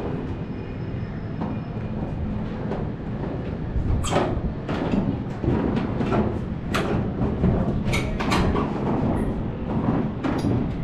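A train running over the railway bridge: a steady rumble with repeated clanks and knocks, and brief metallic ringing near the end.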